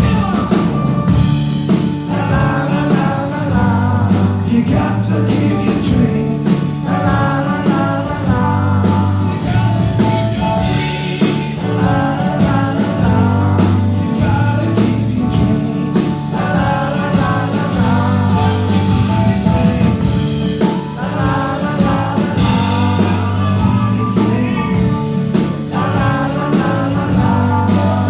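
Live band playing a rock song, with singing voices over a steady drum beat.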